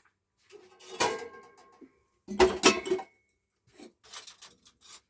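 Metal dishes and pots being handled, clattering in a few separate bursts of knocks with a brief ring. The loudest clatter comes a little past halfway.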